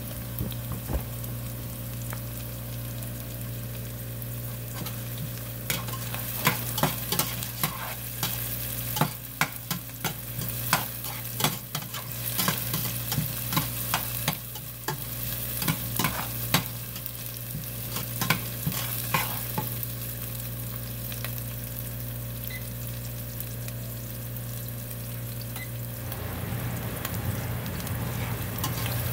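Chopped onion and garlic frying in oil in a stainless steel pot, with a steady sizzle. From about six seconds in to about twenty seconds in, a metal slotted spoon stirs them in quick strokes, scraping and knocking against the pot.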